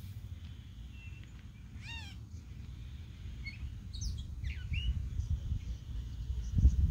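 Songbird singing: a quick descending series of notes about two seconds in, then several brief chirps and whistles, over a low rumble on the microphone that grows louder near the end.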